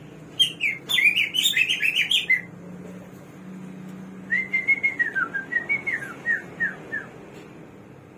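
Samyong songbird singing two phrases: a fast run of sharp, jumbled notes, then after a short pause a string of clear slurred whistles, several falling in pitch.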